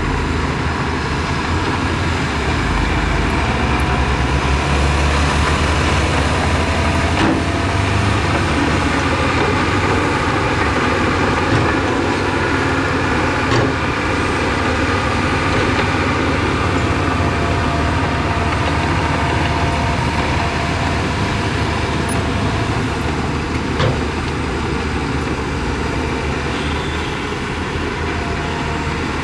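Heavy diesel earthmoving machinery running steadily under load, a low engine drone with a few brief knocks.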